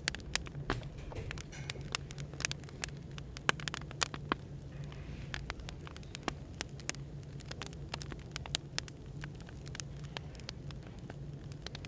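Wood fire crackling, with irregular sharp pops several times a second, over a steady low hum of background room noise.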